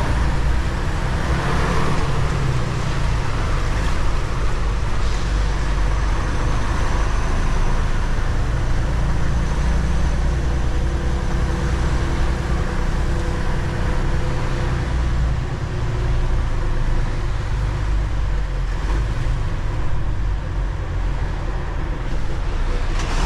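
Steady engine and road noise of a semi-truck on the move, a continuous low rumble with no sudden events.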